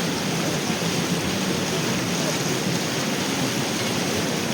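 Steady rushing of a river flowing past.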